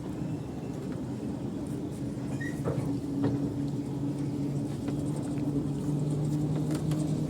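Diesel train engine running with a steady low drone, getting a little louder about three seconds in, with a few faint clicks.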